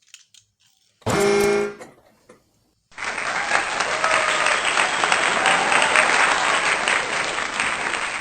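A short pitched musical sound about a second in, then, from about three seconds in, a steady stretch of applause.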